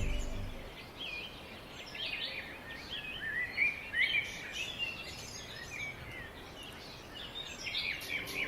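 Small birds chirping and singing in many short notes that rise and fall in pitch, over a faint steady hiss; a music track fades out in the first second.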